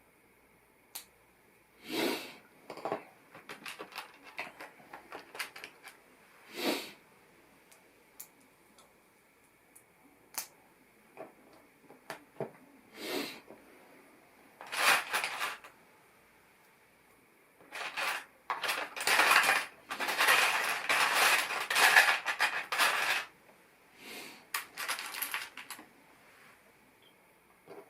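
LEGO plastic pieces clicking and clattering as they are handled and snapped together, with a longer stretch of dense rattling about two-thirds of the way through.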